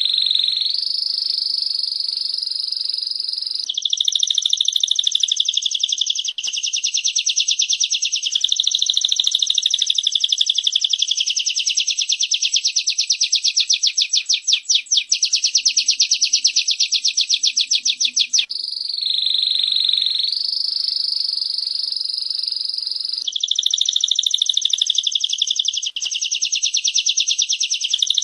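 Recorded songs of a female prinia and a canary: a very rapid, high-pitched ticking trill that runs for many seconds, alternating twice with a smoother, steadier high warble, as if the recording repeats.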